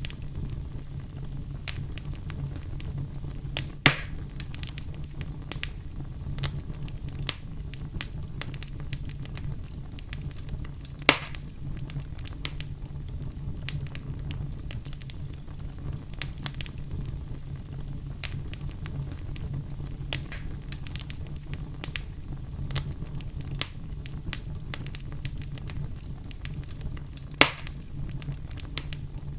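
Wood fire crackling in a fireplace: a steady low rumble of flame with scattered small snaps and three loud pops, about 4, 11 and 27 seconds in.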